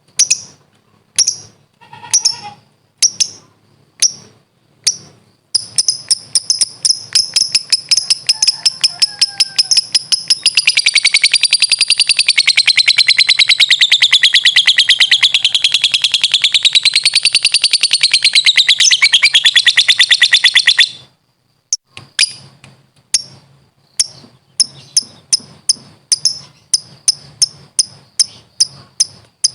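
Lovebird 'ngekek' call: sharp high chirps spaced under a second apart quicken about five seconds in into a long, fast, unbroken chattering trill that wavers up and down in pitch and cuts off suddenly about two-thirds of the way through. Spaced chirps then resume and quicken again near the end; the long unbroken stretch is the 'ngekek panjang' (long ngekek) that lovebird keepers prize.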